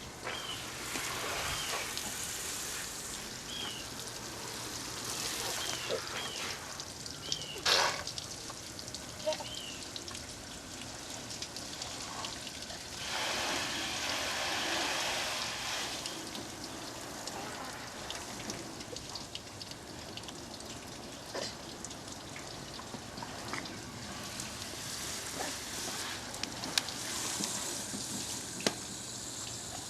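Water trickling and splashing as a car is washed by hand from a bucket, with a few sharp knocks, the loudest about eight seconds in, and a louder stretch of splashing about halfway through.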